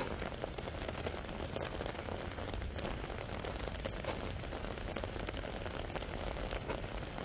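Steady rain falling, a dense, even patter of drops on an umbrella overhead and the wet ground.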